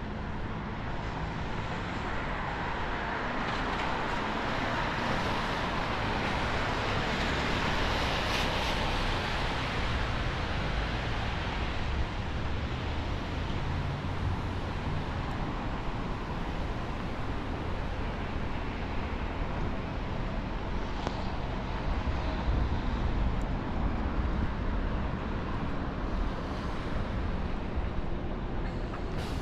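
City street traffic on wet pavement: steady road noise, with one vehicle swelling past between about three and ten seconds in.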